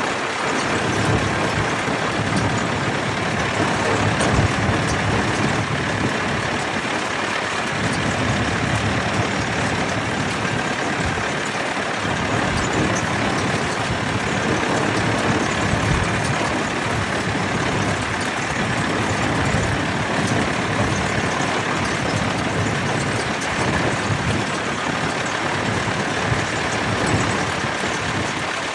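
Vintage tractor engines running, a steady mechanical noise with no pauses.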